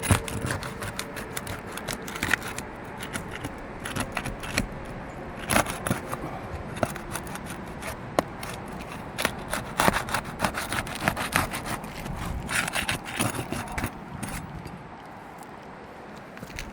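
Asphalt roof shingles being pried and lifted by hand: irregular scraping, clicking and crackling as the brittle shingle tears instead of releasing. The shingle tearing this easily is a sign of a weathered roof with little pliability left.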